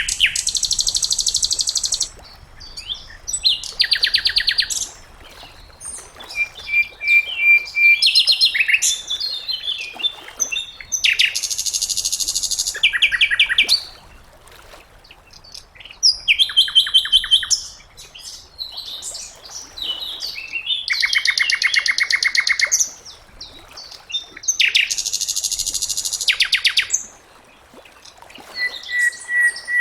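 Sikatan londo (a flycatcher) singing: fast, rapidly repeated high notes in trills of one to two seconds, with short pauses between them. A few brief whistled notes are mixed in.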